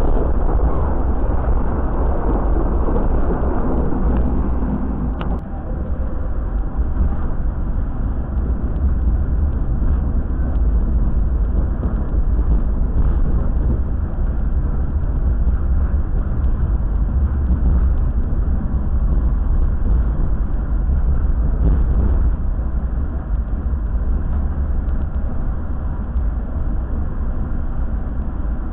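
Executive-class passenger train carriage running along the line, heard from inside the carriage: a steady low rumble of the running gear on the rails.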